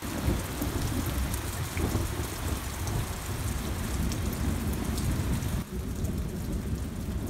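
Heavy rain pouring down in a thunderstorm, a dense hiss of drops over a deep rumble that runs underneath throughout.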